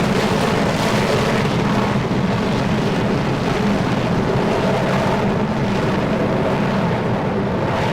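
Jet aircraft engines running at high power during a takeoff roll, a loud steady rushing noise with a low hum underneath.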